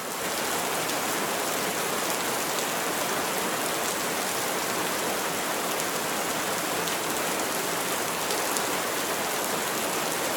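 Steady rain falling, an even wash of sound with faint individual drop patters.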